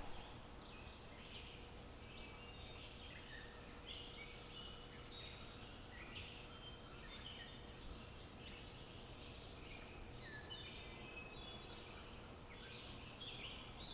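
Faint birdsong: many short, high chirps and calls from birds, overlapping.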